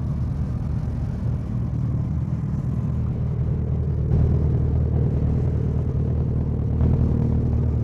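Steady low rumble of a motor vehicle's engine, running evenly without revving.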